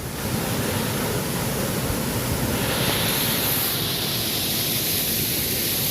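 Steady rushing roar of a waterfall, beginning suddenly and growing a little brighter about two and a half seconds in.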